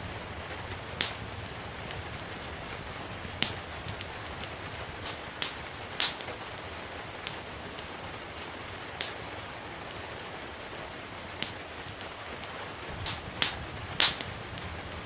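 Wood fire crackling in a fireplace, with sharp pops at irregular intervals, the loudest pair near the end, over a steady hiss of gentle rain.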